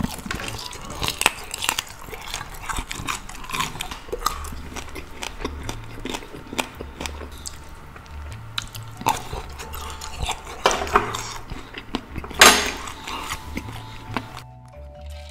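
Close-miked eating: a man biting and chewing crispy pork wrapped in lettuce and spicy salad, with many short crunches and wet mouth sounds, and one louder, noisy bite about twelve seconds in. Soft background music with low bass notes runs underneath, left on its own near the end as the chewing stops.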